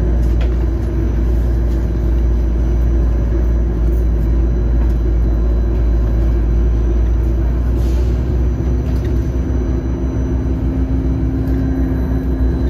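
Steady low rumble of an Airbus A320 taxiing after landing, heard inside the cabin, with a steady hum over it; a second, lower hum joins about eight seconds in.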